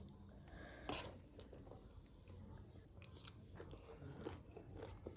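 A person biting and chewing a crunchy snack, with one sharper crunch about a second in and faint small crunches after it.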